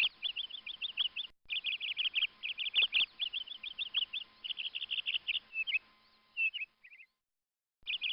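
Songbird singing in quick, repeated phrases of high chirps and trills. The song drops out briefly about a second in and again near the end.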